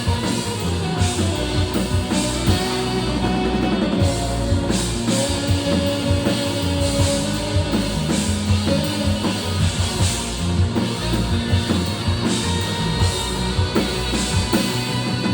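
Rock band playing with a full drum kit, bass and pitched instruments, the drums keeping a steady beat.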